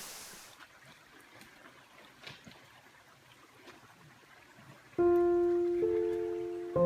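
Rushing stream or waterfall noise fades out in the first half-second, leaving a few seconds of quiet with faint ticks. About five seconds in, background music of plucked guitar notes begins: single notes ringing and decaying, with a fuller chord near the end.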